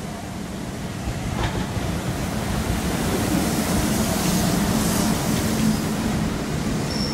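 Train passing on the tracks: a steady rumble of wheels and carriages that grows louder after the first second and peaks in the latter half, with a single sharp click about a second and a half in.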